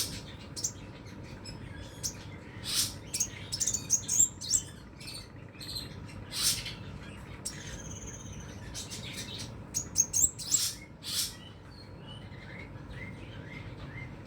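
Crimson sunbird (sepah raja) singing in full song: irregular bursts of sharp, high-pitched chirps and quick trills separated by short pauses.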